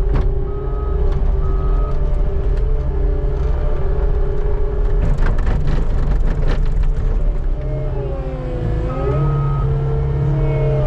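Skid steer engine running under load with its backup alarm beeping in short repeated tones as it reverses. In the middle comes a burst of clattering and scraping as the bucket edge works over the pavement. Near the end the engine pitch dips and rises again as it changes direction.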